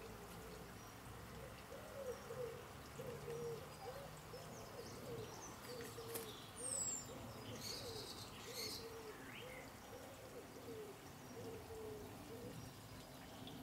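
A bird gives a long run of short, low hooting notes, two or three a second, starting about two seconds in and stopping shortly before the end. A small bird chirps faintly a few times midway.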